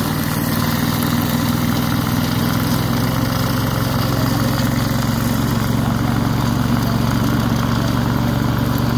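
An engine running steadily at constant speed, a low, even hum that does not change.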